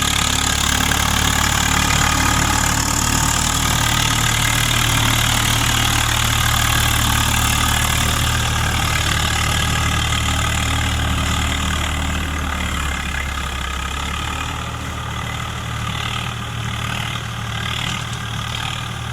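Swaraj 855 tractor's three-cylinder diesel engine running steadily with a rotavator attached. The sound grows quieter about two-thirds of the way through.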